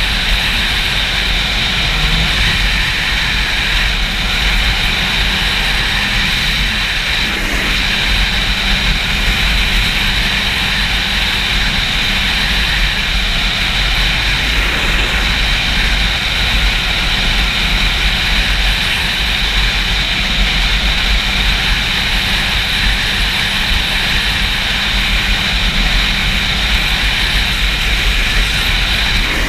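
Steady wind noise buffeting a GoPro microphone on a Yamaha YZF-R6 sport bike at riding speed, a low rumble with the bike's engine running underneath.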